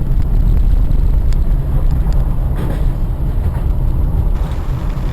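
Steady low rumble of a car driving, road and engine noise, with a few faint clicks; it stops suddenly near the end.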